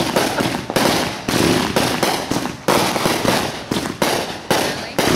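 A rapid series of fireworks bangs, about seven or eight in five seconds, each a sharp report trailing off in crackle and echo.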